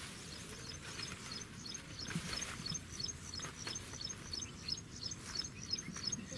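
A small bird chirping steadily: a quick regular run of short high chirps, about four a second. A few brief rustles can be heard, the loudest about two seconds in.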